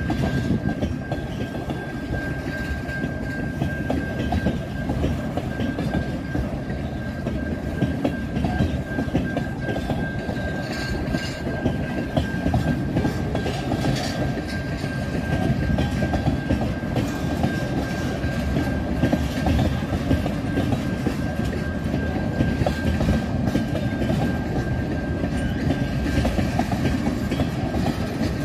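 Freight train of tank cars rolling past a level crossing: a continuous rumble and clatter of steel wheels on the rail joints, with a steady high tone running through it.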